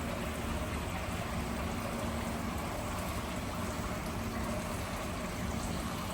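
Shower running: a steady rush of water spray.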